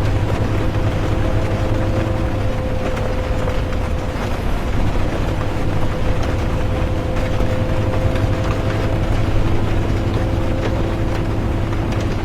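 Inside a moving bus: a steady low engine drone and road rumble, with faint whining tones that fade in and out and light rain ticking against the bus.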